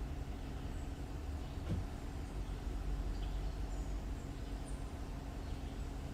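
Car engine and road noise heard from inside the cabin: a steady low rumble with a faint hum, and a single soft knock a little under two seconds in.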